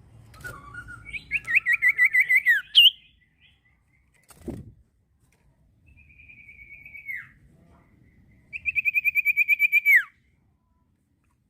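Common iora (cipoh) singing: two fast trills of about ten whistled notes a second, the second ending in a downward slur, with a drawn-out whistle between them. A short thump comes between the first trill and the whistle.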